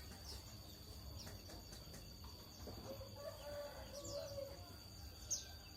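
A rooster crowing once, a drawn-out call about three seconds in, along with a few short, high, downward-sweeping chirps from a small bird.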